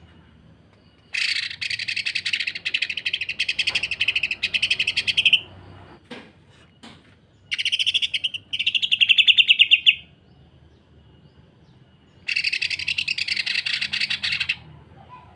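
Cucak ijo (green leafbird) singing its rough, rapid 'sewing machine' phrases: three bursts of fast, tightly packed rattling notes. The first lasts about four seconds, the second comes midway, and the third near the end.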